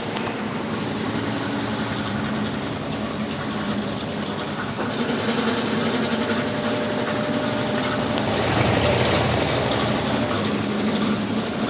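Consul Facilite 10 kg top-loading washing machine in its wash stage, its motor running and a Brastemp BWL09 agitator churning dark clothes in water, with a steady hum.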